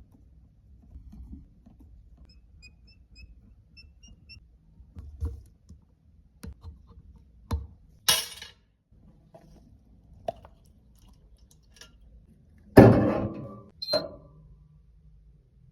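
Small hard objects being handled: scattered light clicks and taps, then a louder knock with a short clatter near the end and a second, smaller one just after.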